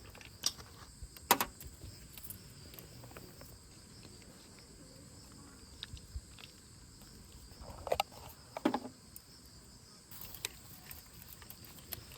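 Crickets chirping steadily in a background chorus, with a few sharp clicks and knocks of things being handled, the loudest about a second in and about eight to nine seconds in.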